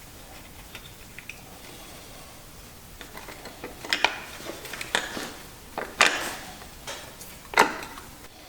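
A few sharp clicks and knocks from hands working on a GM 3800's ignition coil pack and spark plug wires, spaced about a second apart in the second half, with little else in between.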